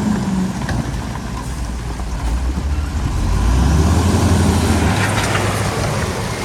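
Heavy earthmoving machine's diesel engine running, growing louder about halfway through, with a few clanks just after.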